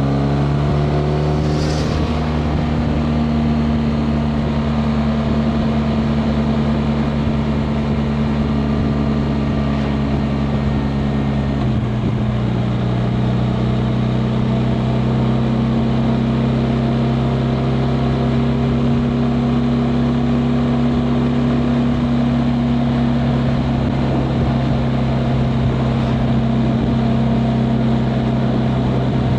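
BMW R 1250 RT's 1254 cc boxer twin engine running steadily under way, heard from on the motorcycle. The engine note rises slightly in the first couple of seconds and steps down in pitch about twelve seconds in, then holds steady.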